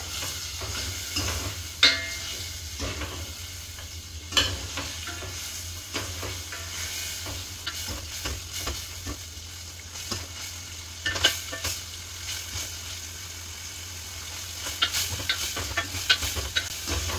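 Paneer cubes frying in butter and oil in a stainless steel pot, sizzling steadily, while a steel ladle stirs them and clinks against the pot now and then.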